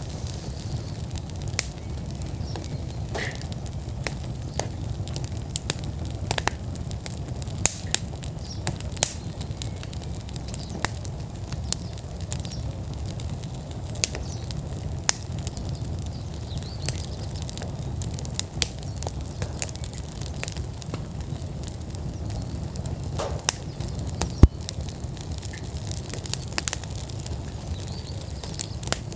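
Wood fire in an outdoor fire pit burning at full burn: a steady low rumble of flames with frequent sharp crackles and pops, one louder pop about three-quarters of the way through.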